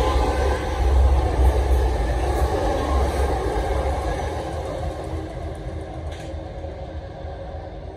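A long South Western Railway electric multiple unit passing close by and running away: steady wheel-on-rail noise with a low hum from the running gear, fading gradually as the train recedes. A single sharp click about six seconds in.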